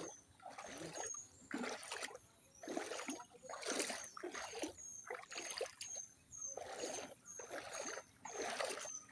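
Water splashing and sloshing in a repeated rhythm of strokes about once or twice a second, as through shallow floodwater. A faint high chirp repeats about twice a second behind it.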